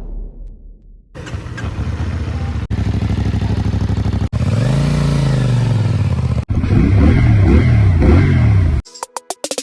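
CFMoto 450NK's parallel-twin engine in several short clips joined by sudden cuts: running steadily, then revved up and back down about halfway through, then several quick rises and falls in revs.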